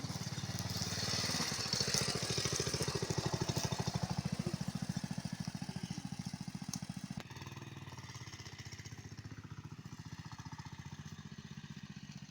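A small vehicle engine running with a rapid, even beat while driving. About seven seconds in it gets quieter and the hiss above it thins.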